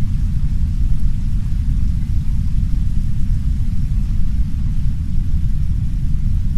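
Steady, heavy brown noise, a deep even rumble, with a faint hiss of soft rain on a window laid over it.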